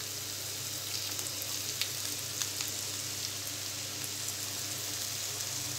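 Hot oil steadily sizzling around freshly added chopped teasel gourd (spine gourd) pieces in a frying pan, with a few faint crackles scattered through it.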